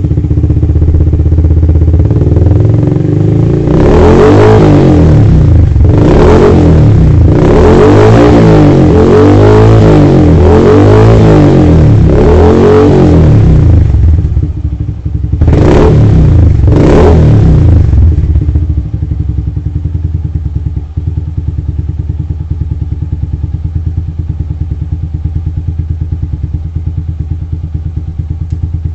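Suzuki Shogun 125's single-cylinder four-stroke engine, heard through its exhaust: idling, then revved up and down over and over for about ten seconds. Two short throttle blips follow, then it settles back to a steady idle.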